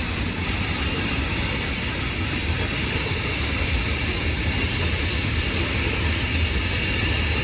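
CSX freight train cars rolling past with a steady low rumble and clatter of wheels on rail, with faint thin high-pitched wheel squeal over it.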